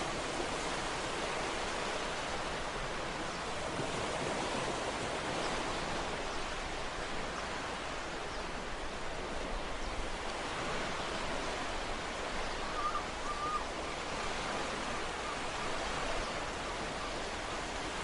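Ocean waves washing onto a shore as a steady surf noise that swells and eases gently. A brief faint warbling tone comes through about two-thirds of the way in.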